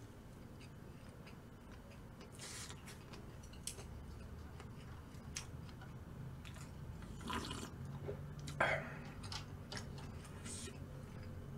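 Quiet chewing and wet mouth sounds of a person eating, with a few short, soft crackles spread through.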